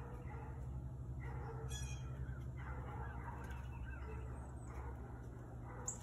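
Birds calling in short, irregular bouts, fowl-like clucking or honking rather than song, over a steady low hum.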